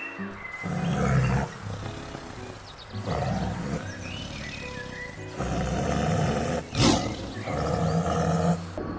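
A large farm animal calling several times, each call about a second long and loud, over background music.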